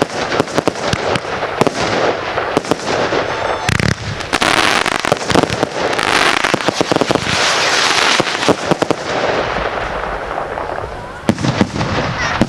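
Consumer firework barrage going off: a rapid run of sharp cracks and bangs, then longer stretches of dense crackling hiss.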